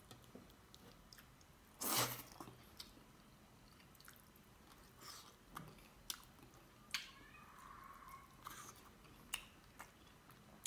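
A man chewing chicken curry eaten with his fingers, heard close up: wet chewing and mouth sounds with scattered sharp clicks. The loudest sound is a single smack about two seconds in.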